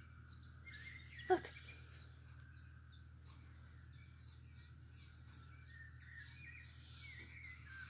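Faint birdsong from a YouTube bird video played through computer speakers: many short chirps and twitters, one after another.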